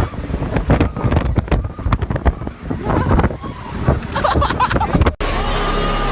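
Storm-force wind gusting hard against the microphone, an irregular rushing buffet that surges and drops. Background music takes over abruptly near the end.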